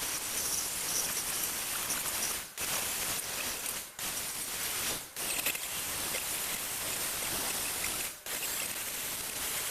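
A steady hiss of a spray being worked, stopping briefly four times and starting again at once.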